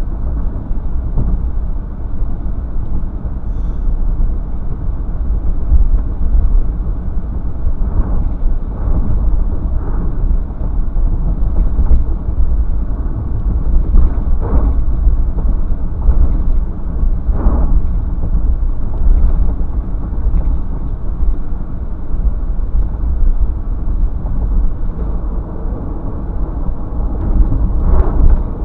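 Steady low vehicle rumble, with a few short knocks scattered through it.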